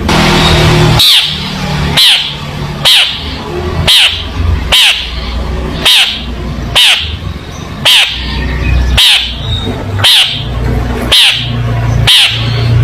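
Long-tailed shrike (cendet) giving a loud, harsh call over and over, about once a second, each call dropping in pitch, over a steady low background hum.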